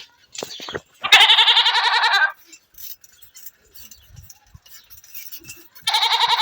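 Two quavering bleats from a farm animal, each a little over a second long and about five seconds apart.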